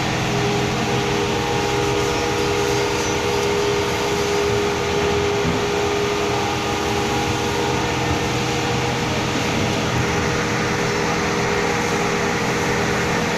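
Steady mechanical drone with a constant low hum.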